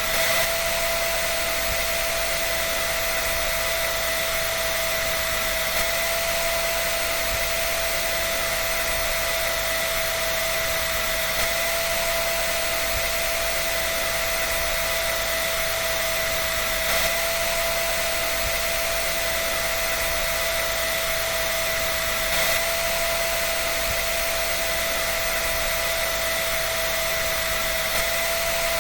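Hair dryer running steadily: an even rush of air with a constant motor whine that does not change.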